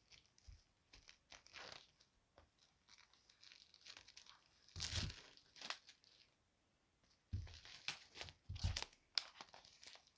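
Faint crinkling and tearing of album packaging being opened by hand, with a few soft knocks of handling.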